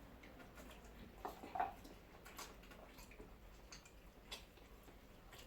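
Faint, scattered clicks and taps of cutlery on plates during a meal, about half a dozen spread over a few seconds.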